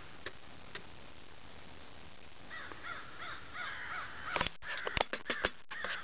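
A series of four or five harsh, arched bird calls about a third of a second apart, halfway through. Near the end a quick run of sharp clicks and knocks as the camera is handled.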